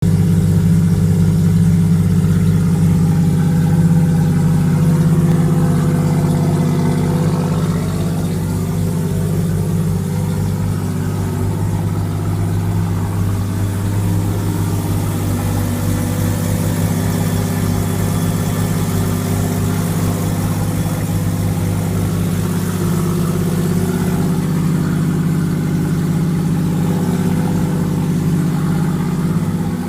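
Turbocharged Mazda 20B three-rotor Wankel engine in an RX-7 race car idling steadily, a little quieter after about eight seconds. The idle is stable, though the owner suspects the ignition timing is still off.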